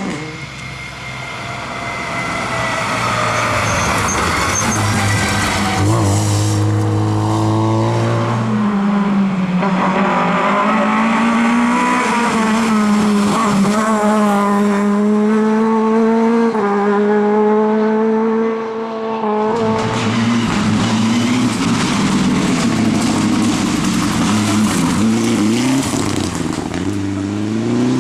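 Rally car engines at full throttle on a stage, revving up and dropping in steps through gear changes. The engine note cuts off sharply about nineteen seconds in, then engine sound picks up again, louder and noisier.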